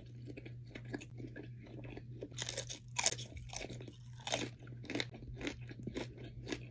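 Close-miked chewing and biting: a person eating seafood boil food in a run of short, crunchy, wet mouth clicks and smacks, loudest about halfway through, over a steady low hum.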